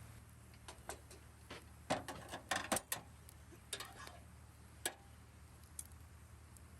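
Irregular sharp clicks and crackles, bunched together about two to three seconds in, over a faint steady low hum.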